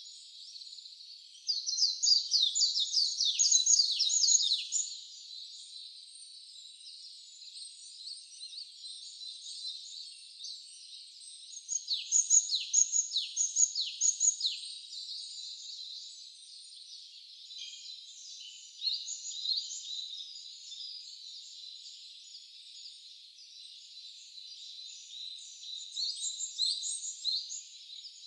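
Wild songbirds singing in a forest: a steady chorus of many small high calls, with one nearer bird twice singing a loud phrase of quick downward-slurred notes, the first about two seconds in and the second about twelve seconds in.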